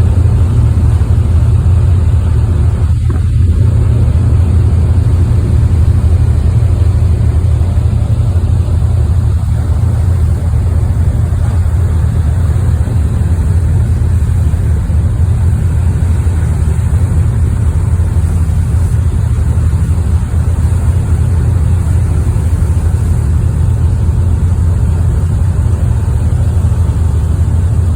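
Car ferry under way: its diesel engines run as a loud, steady low drone, with a steady hiss on top.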